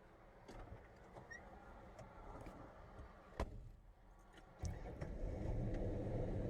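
Faint clicks and knocks, with a sharper click about three and a half seconds in; about a second later the 1957 Ford Ranchero's engine comes in and runs steadily.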